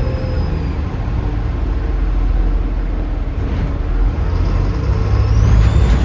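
Turbocharged diesel bus engine running under load with a heavy low thrum. A high turbo whistle fades out in the first second and rises in pitch again near the end.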